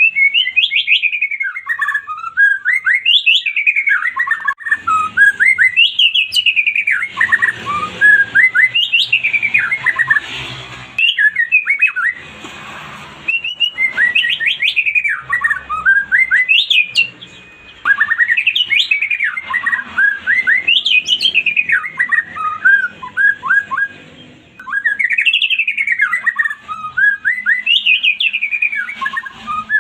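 White-rumped shama (murai batu) singing: bursts of rapid, loud whistled notes sweeping up and down, each run lasting a few seconds and broken by short pauses.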